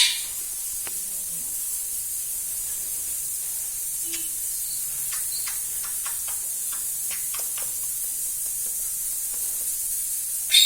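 Steady high hiss with a few faint, scattered clicks in the middle.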